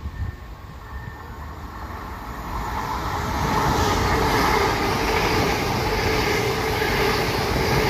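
Great Western Railway Hitachi Intercity Express Train approaching and passing close by on the line. It grows louder over the first three seconds, then runs on as a loud, steady rush of wheels on rail and train noise as the carriages go past.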